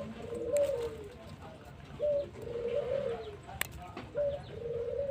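Domestic pigeons cooing over and over in short phrases, with a single sharp click about three and a half seconds in.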